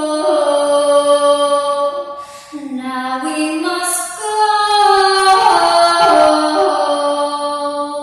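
A woman singing a slow worship song in long held notes that glide from one pitch to the next, with a short break about two and a half seconds in.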